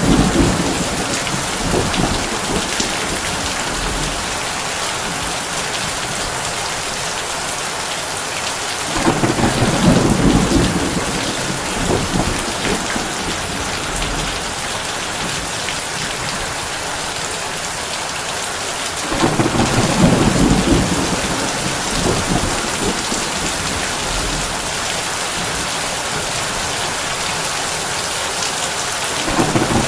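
Heavy rain drumming steadily on a tin roof, with low rolls of thunder swelling about every ten seconds, each lasting two or three seconds.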